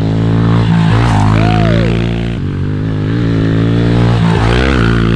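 Dirt bike engine running hard at close range, its pitch rising and falling as the throttle is worked.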